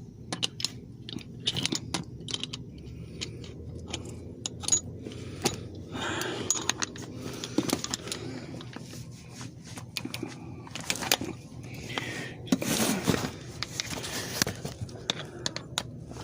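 Metal hand tools clinking and clicking, a socket and ratchet being handled and fitted, in irregular sharp clicks with two stretches of scraping or shuffling about six and twelve seconds in.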